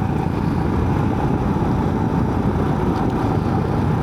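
Motorcycle running steadily at an easy cruising speed, a constant low rumble with a faint steady whine above it.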